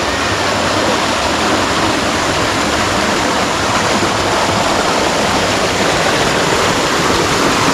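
Water rushing steadily down a waterfall and over rocks in a creek, a loud, even noise.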